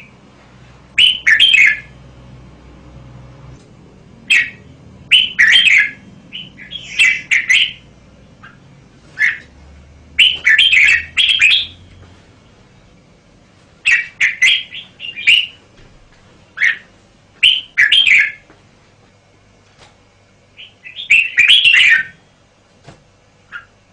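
Red-whiskered bulbul singing: short, loud, bright warbled phrases, about a dozen of them, each a second or less, with pauses of one to three seconds between them.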